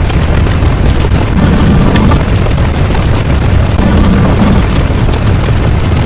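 Loud, continuous deep rumble with a heavy low end, swelling about every two and a half seconds, of the boom or explosion kind.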